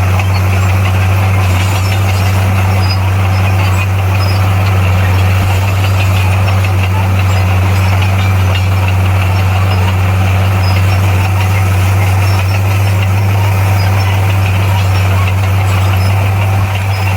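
Bulldozer's diesel engine running at a steady pitch, with a constant low drone and mechanical rattle over it.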